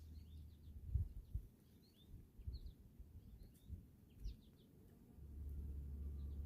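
Small songbirds giving short, high chirps, scattered in small clusters. A few low thumps sound about a second in and past four seconds, and a low hum comes in near the end.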